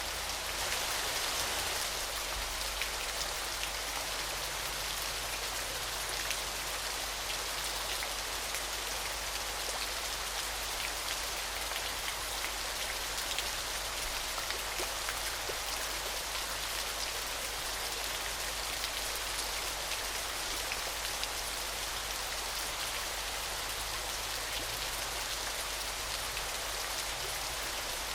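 Steady splashing of falling water, a dense patter of many drops over a constant hiss, as from a waterfall's spray.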